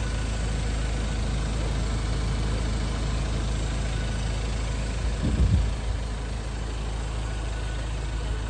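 Car engine running with a steady low rumble, and one louder low thump about five seconds in.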